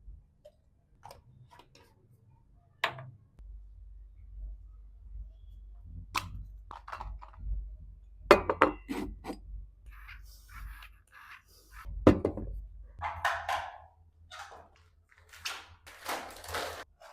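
Household items being handled and set down: scattered light knocks, clicks and clinks, with short rustles. A low hum runs through the middle part.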